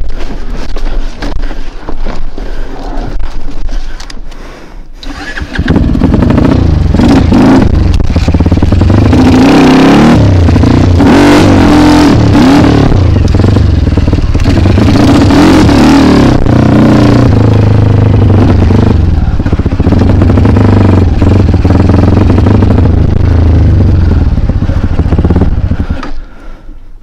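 A trail bike's single-cylinder engine revving hard under load. It is quieter and uneven for the first few seconds, then comes in loud about five seconds in, with the pitch rising and falling as the throttle works, and drops away just before the end.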